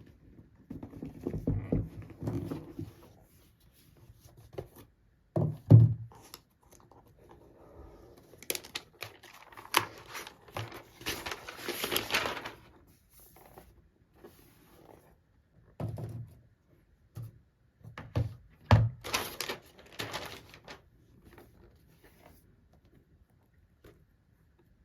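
Packaging being handled while a laptop is unboxed: paper and cardboard rustling and tearing, with a longer stretch of rustling about nine to twelve seconds in. Irregular knocks and a few louder thumps come as pieces are lifted out and set down.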